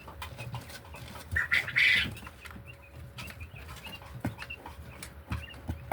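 Pet chicken giving one loud call about one and a half seconds in, with small clicks and taps throughout.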